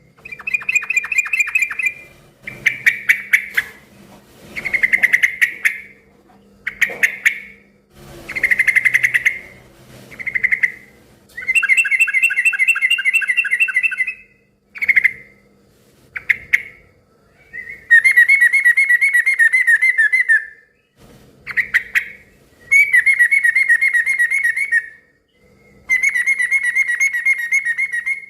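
Yellow-vented bulbul (trucukan) singing vigorously: loud, bubbling, chattering phrases about one to two seconds long, repeated about a dozen times with short pauses between them.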